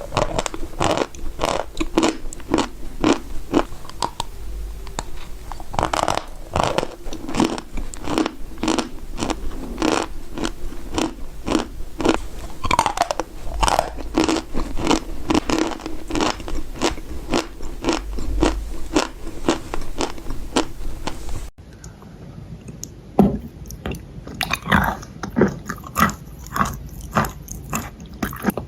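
Close-miked crunching and chewing of dry edible clay: crisp bites and crunches several times a second. About two-thirds of the way through there is an abrupt cut, after which the chewing goes on a little quieter.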